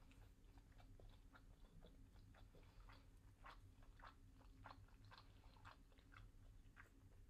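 Faint chewing of a seaweed-wrapped triangle kimbap with tuna mayo filling, with many small crackling clicks, thickest from about three seconds in, over a low steady hum.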